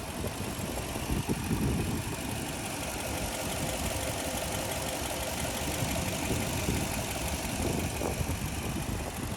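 Toyota 2UZ-FE 4.7-litre V8 idling steadily, running smoothly with no audible issues.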